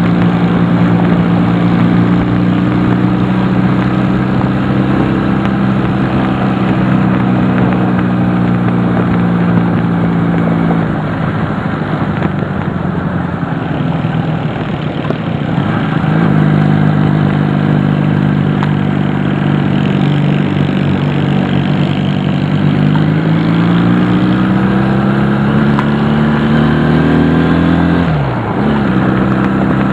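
Honda CD175's air-cooled parallel-twin engine running under way, with wind rush over it. The engine note fades for a few seconds near the middle, then the revs climb steadily and drop sharply with a gear change near the end.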